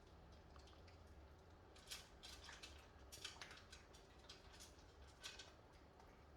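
Near silence with faint, scattered ticks and clicks.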